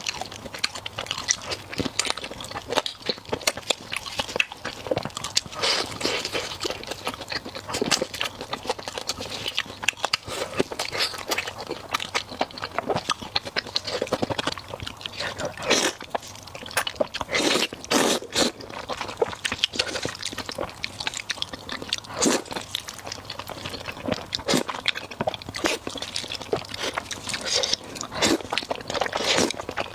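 A person biting and chewing food close to the microphone, in an irregular run of crunches and chewing clicks.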